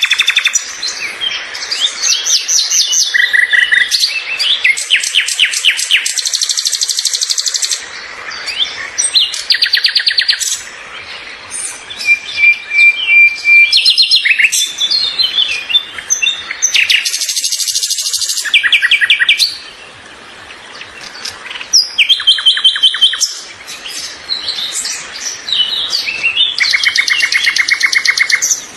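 Several songbirds singing at once: overlapping fast trills, rapid chirp series and clear whistled notes, one held whistle lasting about two seconds near the middle.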